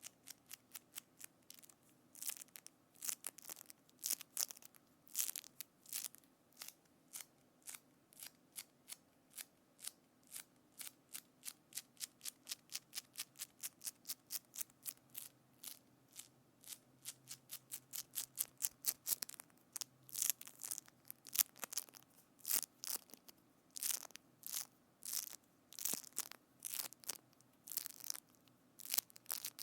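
A close-miked ASMR trigger made by hand: a rapid run of short, crisp, crackling clicks, about three to four a second, getting louder and more irregular in the second half.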